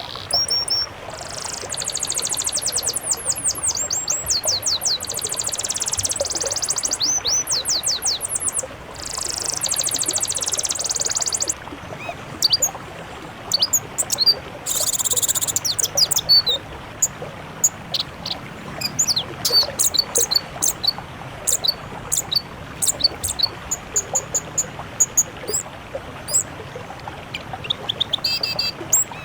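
Songbirds singing in a mixed 'masteran' song recording: long runs of very rapid high trills with short breaks, then scattered quick chirps and whistles about halfway through, all over a steady hiss.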